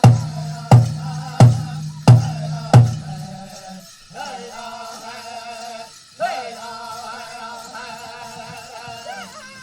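Powwow drum group singing a chicken dance song: a large powwow drum is struck hard five times, about once every 0.7 s, then stops about three seconds in while the high sung voices carry on without it.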